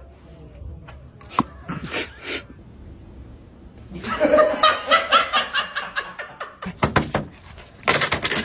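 A person laughing, in a run of quick repeated laughs that begins about halfway through.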